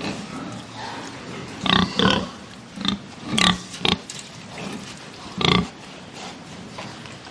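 Pigs calling: a run of about six short, loud grunts and squeals, bunched together in the middle of the stretch, over a quieter steady background.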